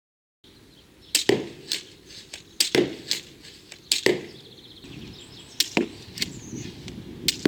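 3D-printed pump-action crossbow (a sliding legolini) being cycled and shot in quick succession: a series of about ten sharp snaps and knocks at uneven intervals, the loudest about a second in and near three, four and seven seconds.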